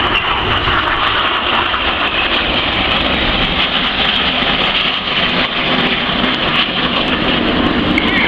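Steady jet engine noise from BAE Hawk T1 display jets of the Red Arrows flying overhead, an even roar with a low rumble beneath.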